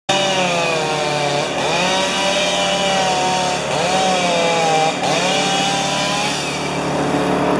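Two-stroke chainsaw running at high revs and cutting through wood, its pitch dipping and recovering several times under load.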